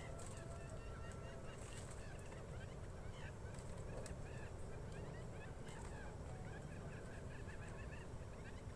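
Quail calling: a dense stream of short, repeated chirping calls over a steady low rumble.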